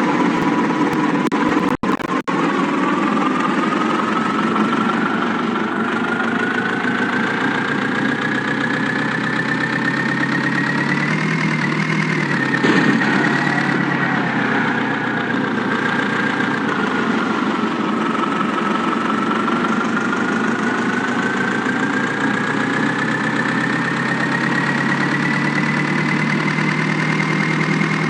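A motor running steadily, with a whine that slowly rises, dips about halfway through, and rises again.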